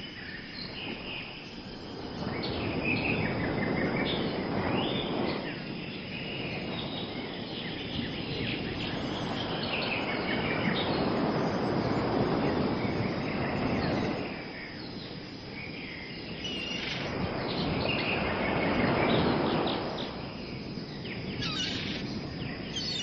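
Birds chirping over a broad rushing outdoor noise that swells and fades several times.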